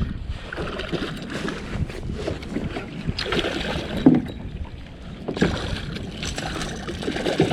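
Water splashing and sloshing around a fishing kayak as a hooked fish is brought in, with scattered knocks on the hull and a sharper knock about four seconds in.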